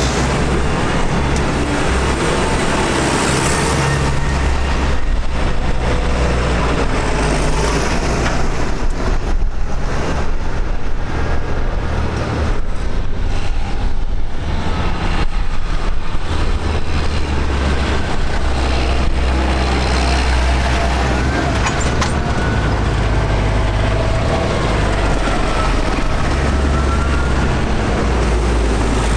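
Tractor engines running in a continuous low drone as tractors drive past, with engine notes shifting in pitch.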